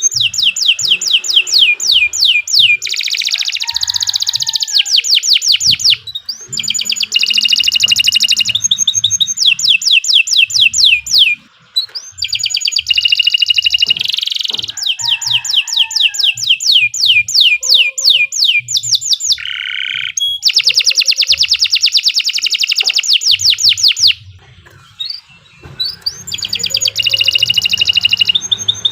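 Domestic canary singing long, fast trills of rapidly repeated high notes, one phrase running into the next with only brief pauses.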